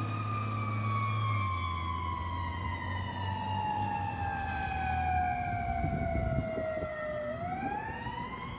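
Fire engine's siren on a wail: a single tone falling slowly for about seven seconds, then climbing again near the end, over the low rumble of the truck's engine.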